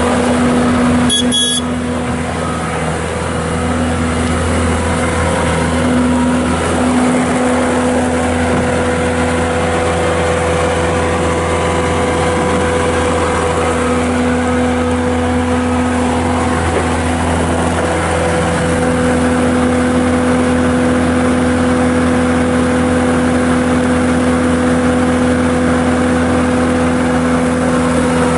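Bobcat S630 skid steer loader's Kubota V3307 diesel engine running at a steady speed, with a short sharp clank about a second in.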